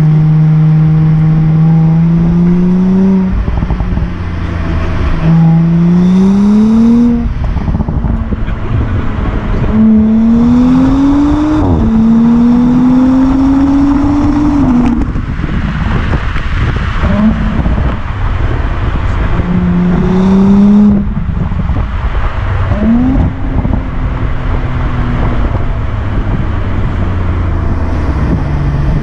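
Audi S4 Avant B9's turbocharged V6 engine and exhaust under acceleration. The engine note climbs in pitch over a second or two, then drops back and climbs again, several times over, with a steady rush of road and wind noise beneath.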